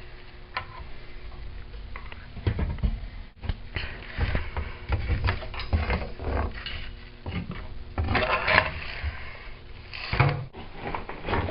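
Irregular knocks, scrapes and rustling from handling and pulling at a clogged clothes-dryer vent duct, with denser bursts of scraping about eight and ten seconds in.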